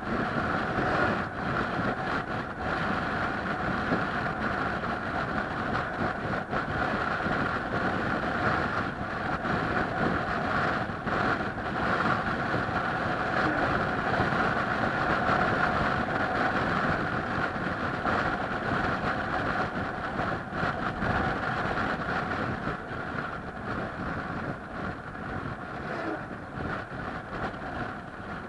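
Steady running noise of a moving vehicle, with a constant hum over low road or track noise.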